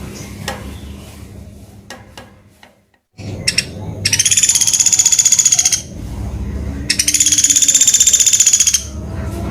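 Woodpecker (pelatuk beras) giving two long, loud, rapid rattling calls of about two seconds each, over a steady low hum.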